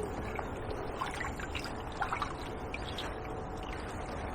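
River water trickling and sloshing steadily, with a few faint small splashes or ticks.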